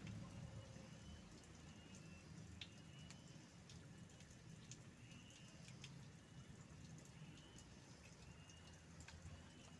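Near-quiet outdoor ambience with a faint bird chirp repeating about once a second, and a few faint clicks.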